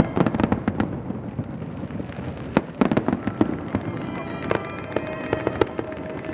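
Aerial fireworks bursting in a run of sharp bangs and crackles at uneven intervals, some bunched close together. Music plays underneath.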